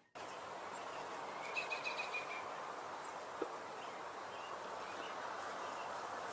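Steady outdoor background noise with a brief quick run of high bird chirps about one and a half seconds in.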